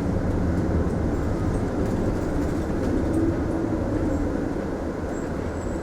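Mitsubishi Fuso Aerostar city bus running, heard from inside the passenger cabin: a steady low engine drone with road and body noise, easing a little near the end.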